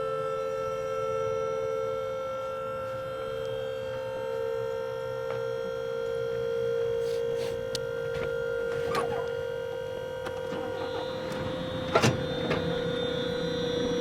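An electric motor whining at a steady pitch, set running by a remote's down button, as on a trailer winch or tilt-deck pump; a few clicks and one sharp knock about twelve seconds in.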